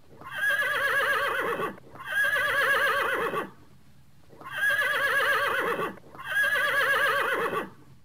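Horse whinnying four times in two pairs, each call a quavering neigh about a second and a half long.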